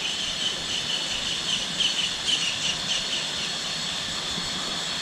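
Steady rush of flowing water from a jungle waterfall and stream, with insects chirring in a high, steady band that pulses faintly.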